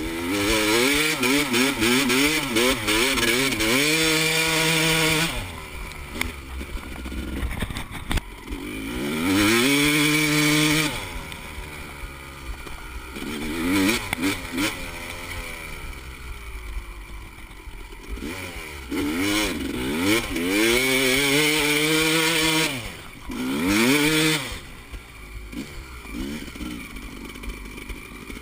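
Four-stroke dirt bike engines revving hard in repeated bursts, the pitch climbing and falling as the throttle opens and closes, loudest in the first five seconds, around ten seconds and again from about nineteen to twenty-four seconds, running quieter in between.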